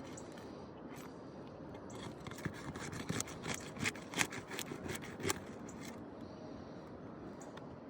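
Rough scraping and crackling against asphalt roof shingles, a quick irregular run of gritty strokes starting about two seconds in and lasting a few seconds.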